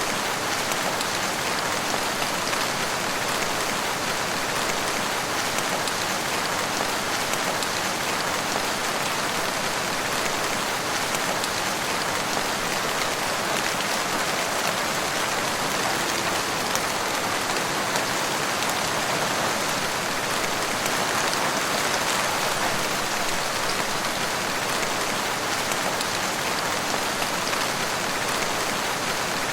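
Steady rain falling in a forest, a dense even hiss of drops pattering on leaves and surfaces.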